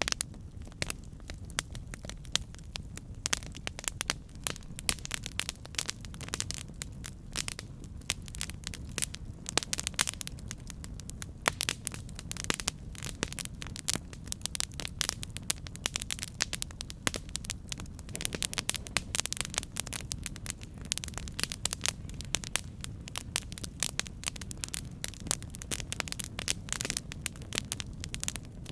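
Campfire burning with steady, dense crackling and popping over a low rumble of the flames.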